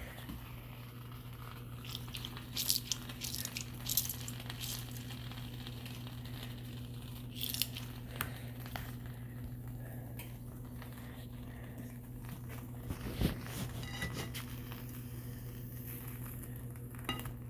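Grilled cheese sandwich cooking in a frying pan: faint crackling with a few scattered clicks of handling at the pan, over a steady low hum.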